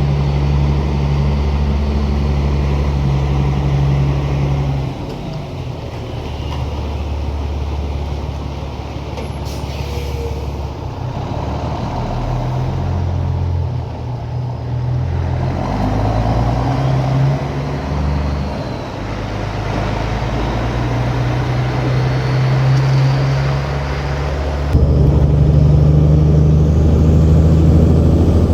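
Diesel engine of a loaded grain truck running under way. Its note drops and climbs in steps several times as it changes gears, and it gets louder about 25 seconds in.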